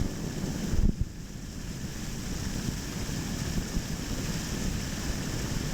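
Rushing waterfall water, a steady noise heavy in the low end with rumble on the microphone, and a short loud thump about a second in.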